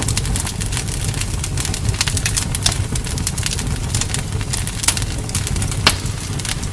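Campfire burning: a steady low rumble of the flames with frequent crackles and pops of the wood, a couple of louder sharp pops about five and six seconds in.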